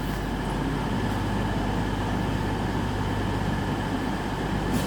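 Diesel multiple unit's engines idling steadily at a station, a constant low hum with a few steady higher tones over it.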